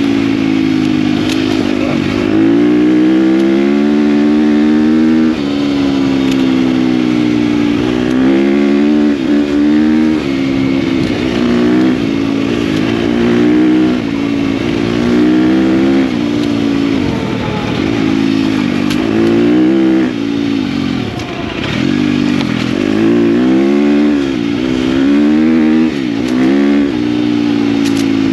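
KTM dirt bike engine under way, its pitch climbing and dropping again and again as the throttle is opened and closed.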